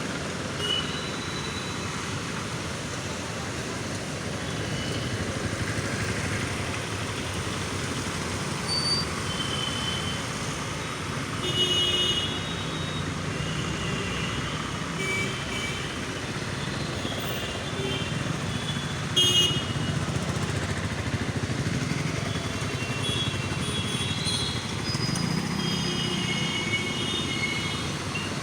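City road traffic: a steady wash of vehicle and tyre noise with frequent short horn toots through it.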